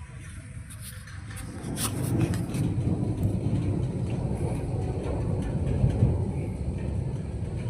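Thunder rumbling, swelling about a second and a half in into a long, deep roll.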